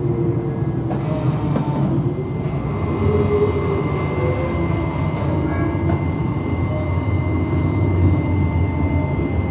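Electric tram running, heard from inside the car: a steady low rumble with a whine that glides up and down in pitch and a constant high tone, plus a brief hiss about a second in.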